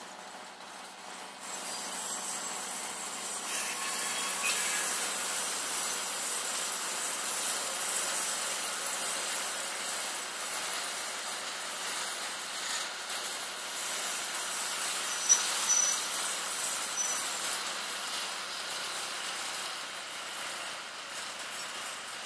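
Passenger coaches of a train rolling past on the track: a steady rush of wheel and rail noise that grows louder about a second and a half in.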